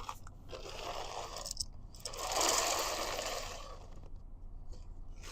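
Ground coffee being poured into a bag: a soft, grainy hiss that swells about two seconds in, then fades away.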